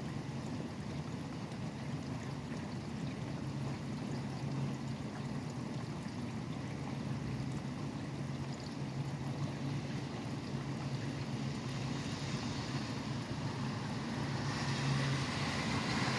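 Steady rain falling, with the low rumble of highway traffic beneath it; the hiss swells near the end as traffic passes on the wet road.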